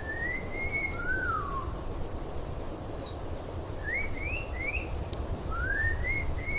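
A bird singing clear whistled phrases of gliding notes: a rising note, a falling one about a second in, a quick run of three short upslurred notes past the middle, then more rising notes near the end. Under it runs a steady low rumbling background noise.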